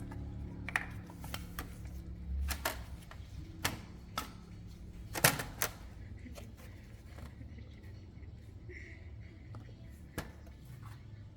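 Scattered clicks and knocks of metal tools and parts being handled during motorcycle repair work, about eight in all and irregularly spaced, the loudest a little past five seconds in.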